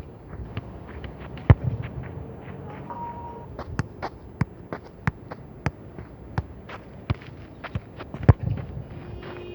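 A football being kicked on a playground: two hard kicks with a dull thud, about a second and a half in and again near the end, with lighter taps of the ball about two or three a second in between.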